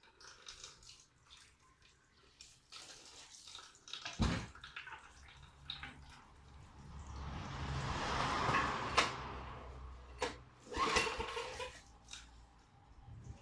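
Water pouring and splashing, swelling to a rush in the middle, amid scattered clicks and knocks of handling.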